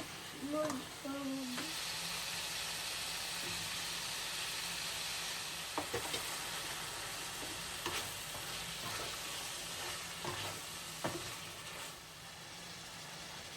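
Food frying in oil in a pan: a steady sizzle that sets in about a second and a half in and eases off near the end. A few sharp knocks of a utensil against the pan are heard as it is stirred.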